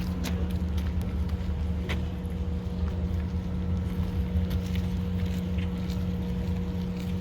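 Steady low mechanical drone with a constant hum, and a few faint clicks scattered through it.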